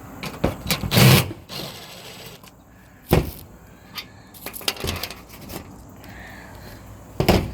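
Loose sheet-metal roof panel being pulled off and handled: a few separate scrapes and knocks, the loudest about a second in, others near three, five and seven seconds.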